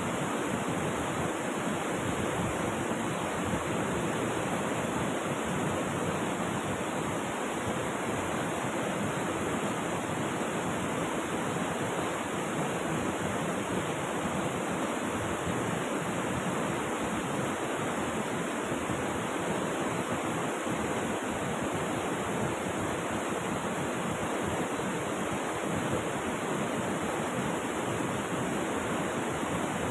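Flowing river water rushing steadily, an even, unbroken wash of water noise.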